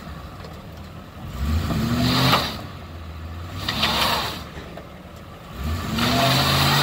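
2007 Lincoln Town Car's 4.6-litre V8 revved twice in short blips, then brought up to high revs and held loud near the end as the burnout begins.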